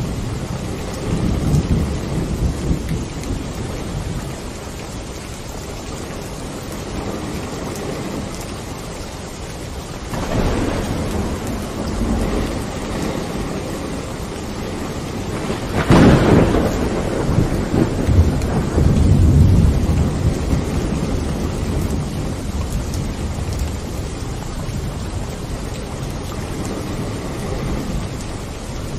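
Steady rain with rolling thunder. Low rumbles come near the start and about ten seconds in, then a sharper thunderclap about sixteen seconds in rolls on for a few seconds.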